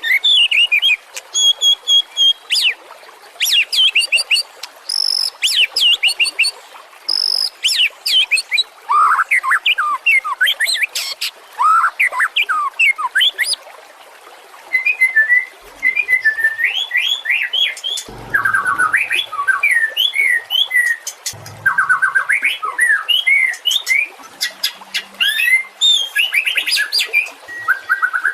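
White-rumped shama (murai batu) singing a long, varied song of clear whistles, sweeping notes and rapid trills, delivered in quick bursts with short pauses between phrases.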